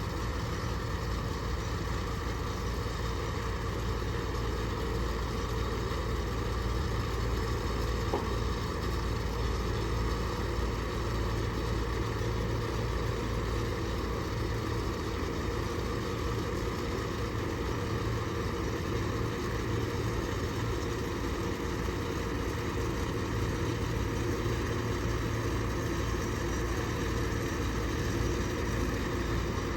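A vehicle engine running steadily with an even low rumble, neither revving up nor dying away.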